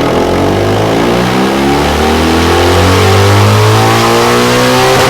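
BMW R1200GS boxer twin running through a Delkevic X-Oval titanium silencer on a dyno, loud, its revs climbing steadily under load. The rise breaks off near the end.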